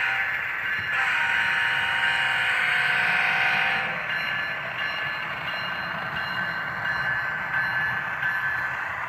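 HO scale model locomotive sounding its horn, a steady chord of several held tones from a small speaker. About four seconds in it drops to a quieter, thinner tone that carries on.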